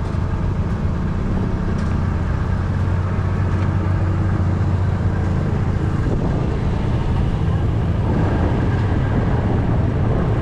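Tractor engine running steadily at an even speed, with a low, constant pitch.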